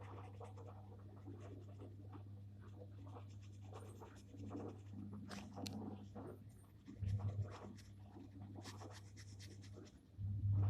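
Gel pen scratching on paper in many short drawing strokes, over a steady low hum.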